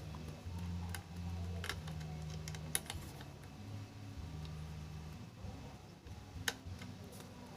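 Scattered clicks and taps of small metal parts being handled and fitted on a sewing machine, a few sharp clicks standing out, over a low hum.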